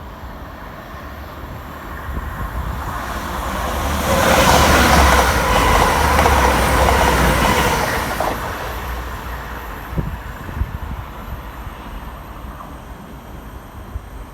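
A train passing by on the rails: the rush of wheels and air builds over a couple of seconds, is loudest for about four seconds in the middle, then fades away.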